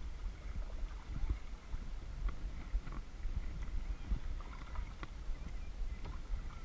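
Kayak paddling on a lake: paddle blades dipping and water splashing and lapping against the hull in small irregular splashes, over a low rumble on the camera's microphone.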